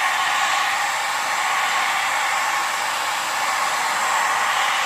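Handheld hair dryer running steadily on its low setting, blowing warm air to melt ice off a dehumidifier's frozen evaporator coil.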